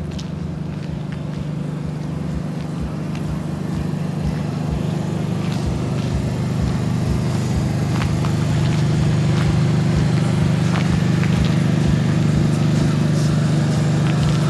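Large bus engine running steadily with a low hum, growing louder over the first several seconds and then holding, with a few light clicks over it.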